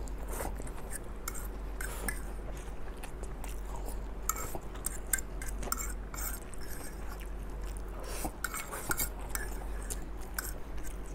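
Close-miked chewing of instant fried noodles, with a fork clicking and scraping on a plate as the last scraps are gathered up. A steady low hum runs underneath.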